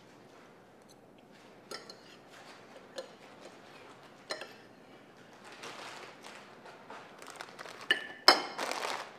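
Dishes and cutlery clinking: a few separate clinks, then a sharp ringing clink and louder clatter near the end.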